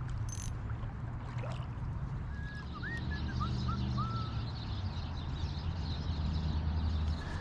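Creek water running as a faint steady hiss over a low steady rumble. Between about two and four seconds in, a bird gives a quick series of five or six short whistled notes.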